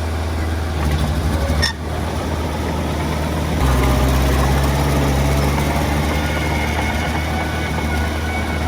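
Diesel engine of earthmoving machinery running steadily. It grows louder and deeper about three and a half seconds in, as if taking on load.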